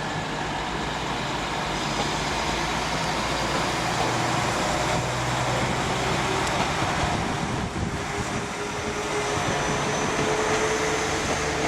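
Class 195 diesel multiple unit running at the platform: a steady low engine hum, with a faint whine coming in during the second half.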